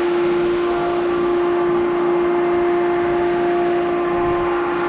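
Grain-handling machinery at the grain bins running: a steady, loud drone with one strong constant hum tone and fainter higher tones above it.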